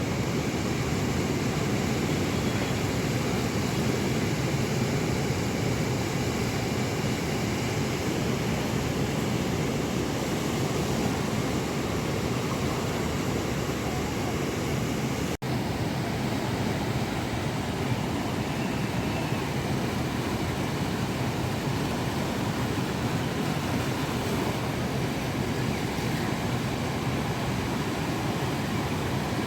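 Rough monsoon sea surf and strong wind on the microphone, a steady dense rushing noise, broken by a split-second dropout about halfway through.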